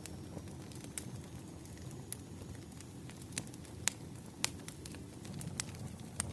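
Wood fire crackling: irregular sharp pops and snaps over a steady low rumble of burning logs, with the loudest two pops a little under four and about four and a half seconds in.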